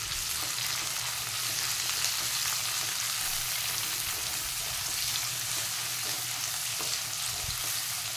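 Sliced onions and green capsicum sizzling in oil in an aluminium kadai on high heat, stirred with a silicone spatula: a steady frying hiss with faint scrapes of the spatula.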